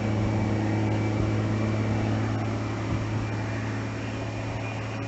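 A steady low machine hum with a hiss behind it, unchanging throughout.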